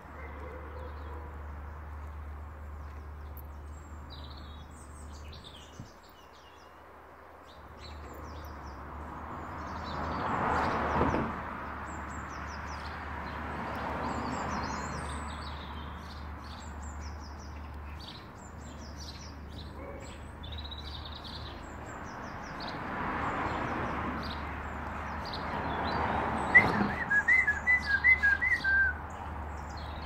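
Small birds chirping and twittering, with a louder bird calling a quick run of about eight short notes near the end. A rushing noise swells up and fades away several times underneath, with a steady low hum.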